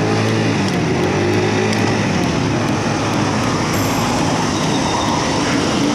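Steady rushing wind and road noise on a small action-camera microphone while cycling through city traffic.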